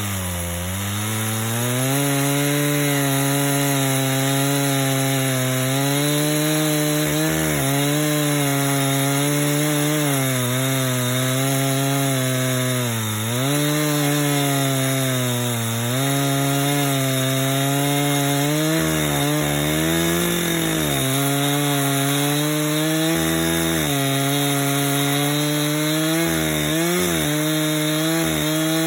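Two-stroke chainsaw on a chainsaw mill ripping a log lengthways into a plank, the engine held at high revs under load and dipping briefly in pitch a few times as the chain bogs in the cut.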